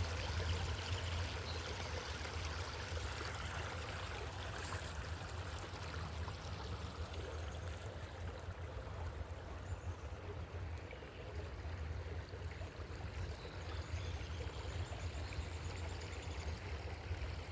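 Steady rushing of a flowing stream, with a constant low rumble underneath.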